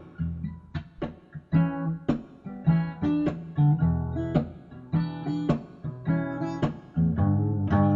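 Acoustic guitar strummed in a steady rhythm, the same chords repeating with no singing.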